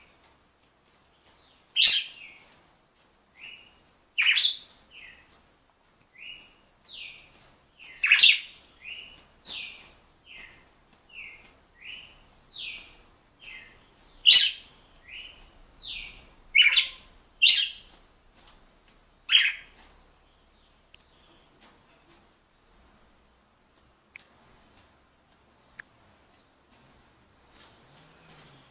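Red-cowled cardinal (galo-de-campina) singing: a run of short down-slurred whistled notes, roughly one every 0.7 seconds, mixed with loud sharp notes. In the last third the song stops, and a thin high peep repeats about every second and a half.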